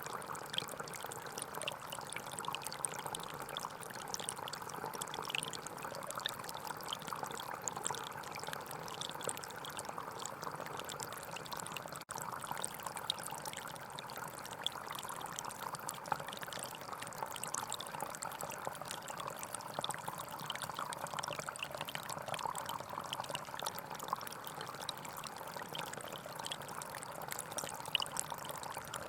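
Shallow forest stream flowing and babbling steadily over rocks, with fine splashes, with a momentary break about twelve seconds in.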